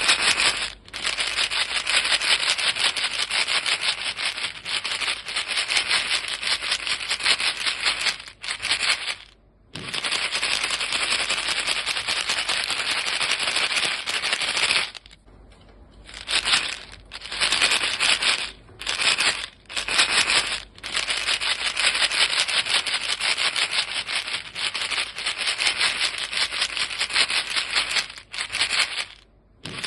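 A box of chewing gum shaken by hand: a fast, dense rattle of the pieces against the box, breaking off briefly a few times, the longest break about halfway through.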